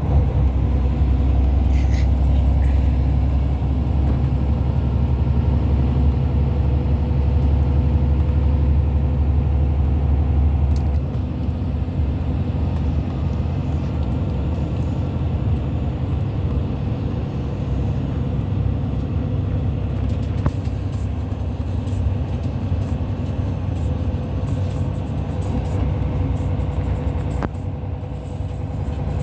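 Hyundai Universe Space Luxury coach in motion, heard from inside the cabin: steady engine and road rumble. The heavy low rumble eases about a third of the way in and settles into a lighter, steady running noise.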